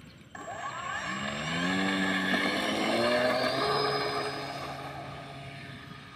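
Radio-controlled model Cessna's motor and propeller throttling up from rest for a takeoff run. The pitch climbs over about two seconds, then holds and fades a little.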